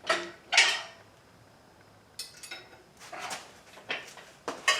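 Metal parts and tools clanking and clattering while an engine hoist's hydraulic ram is being fitted. There are two sharp knocks at the start, then a pause, then a run of lighter rattles and knocks from about halfway through.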